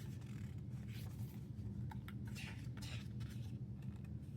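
Soft paper rustles from the pages of a K-pop album photobook being turned and handled, over a steady low hum.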